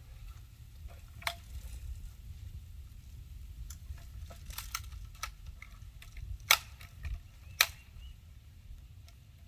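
Sharp clicks and snaps from a BB gun being handled and fired. The two loudest come about a second apart in the second half, over a low rumble of handling noise.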